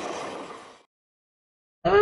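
A RoadRailer freight train's rolling noise fades out within the first second, followed by silence. Near the end a howl starts, rising in pitch and then holding steady.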